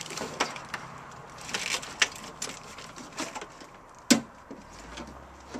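Scattered clinks and knocks of work on an engine pull, with a sharp knock about two seconds in and a louder one about four seconds in.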